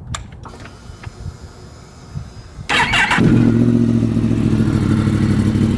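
Yamaha MT-10's crossplane inline-four starting from cold: a few light clicks, then a brief crank about two and a half seconds in. The engine catches and settles into a steady idle.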